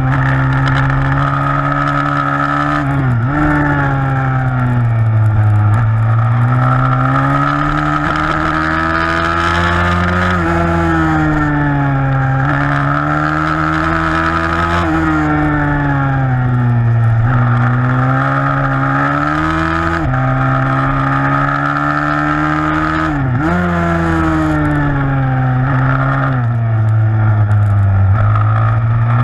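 160cc single-cylinder four-stroke pit bike engine racing, its pitch rising and falling every few seconds as the rider works the throttle through corners. There are brief sharp drops in revs about three seconds in and again near the end.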